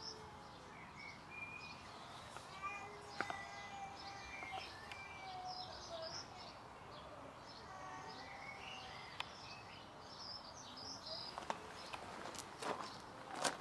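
Faint songbirds chirping and singing over steady outdoor background hiss, with a few sharp clicks near the end.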